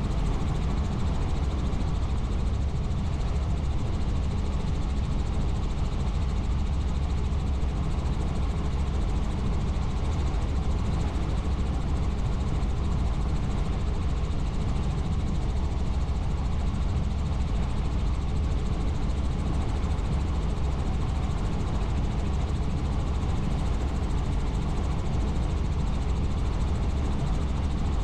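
Helicopter in flight: steady engine and rotor noise, strongest in a deep low rumble, unchanging throughout.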